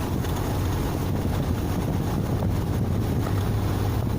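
Large truck's engine running with a steady low rumble, heard from inside the cab.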